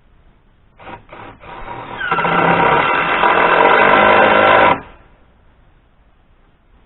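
Cordless drill driving a screw into a pine board: two short trigger blips, then a steady whine of about three seconds that cuts off suddenly.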